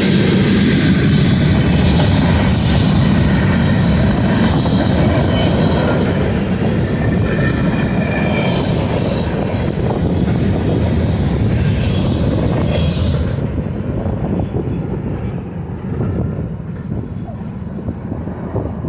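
Freight train rolling past on the mainline, a loud steady rumble of wheels on rail with faint high-pitched squealing. The high, hissing part cuts off about thirteen seconds in, leaving a lower rumble.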